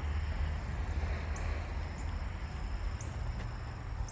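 Outdoor ambience: a steady low rumble with faint insect chirping and a few light high ticks.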